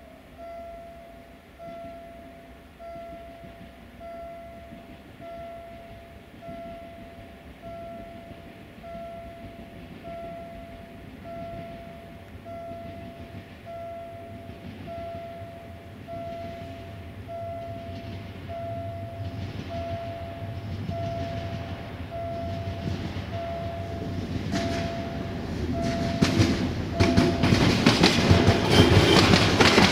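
Level-crossing warning bell ringing about once a second while an approaching passenger train's running noise grows steadily louder, with wheels clattering over the rails in the last few seconds.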